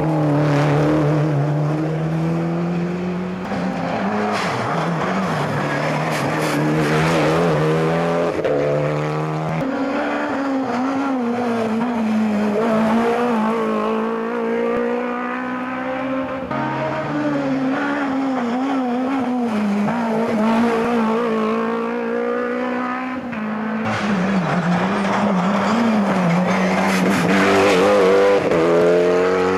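Rally car engines revving hard through the gears, the pitch climbing and then dropping abruptly at each shift, with tyre squeal.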